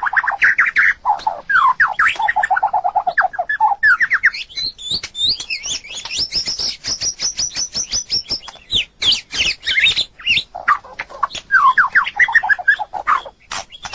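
White-rumped shama singing a varied song: fast runs of rapidly repeated sweeping notes, lower-pitched phrases at first, a high-pitched run in the middle, then lower phrases again after a short pause.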